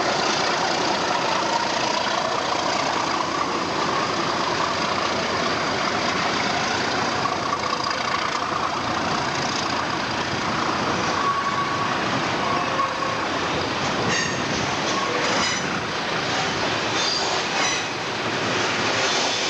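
A train running through a station: a steady rumble and hiss of the train on the rails. From about two-thirds of the way in come a series of short clicks and brief high squeals from the wheels.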